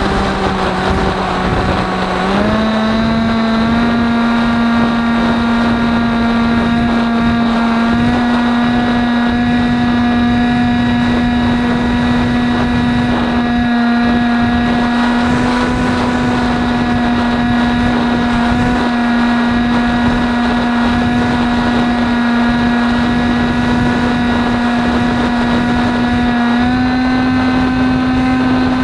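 Electric motor and propeller of an AXN foam RC plane running at steady throttle, a steady hum that steps up in pitch just after two seconds in and again slightly near the end. Wind noise rushes over the microphone throughout.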